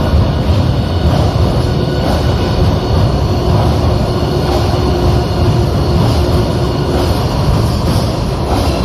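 Madrid Metro train running, a loud steady rumble with whining tones above it.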